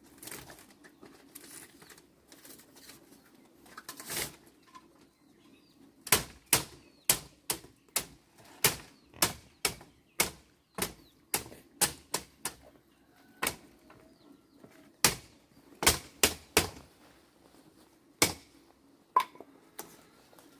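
A run of sharp knocks, sparse at first, then about two a second from about six seconds in, thinning out near the end, over a faint steady hum.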